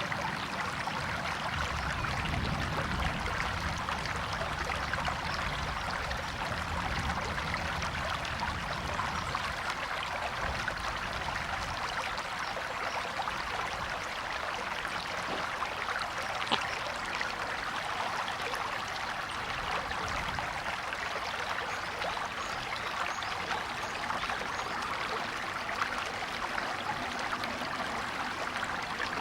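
A river or stream flowing over stones with a steady rushing and trickling. A low rumble sits under the water during the first ten seconds or so.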